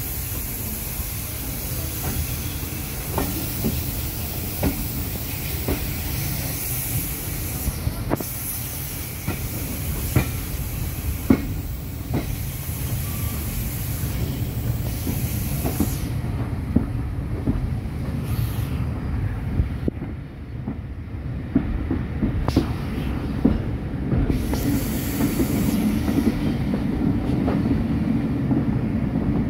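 Heritage steam-hauled passenger train heard from inside a carriage at an open window: a steady rumble of wheels on the track with clicks from the rail joints every second or so. A high hiss runs with it and fades out about halfway through.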